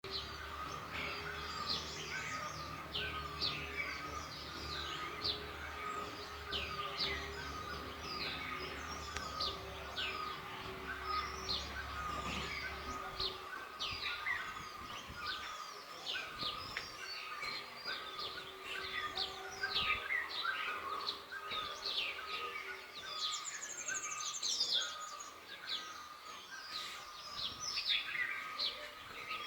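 Many small birds chirping at once: a dense chorus of quick, downward-sweeping calls, with a steady high drone underneath. A low rumble in the background fades out about halfway through, and a high buzzy trill comes in briefly near the end.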